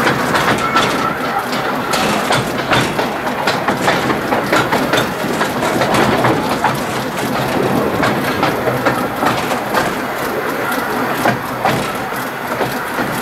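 Narrow-gauge train running along the track: a steady rattle with many sharp clicks.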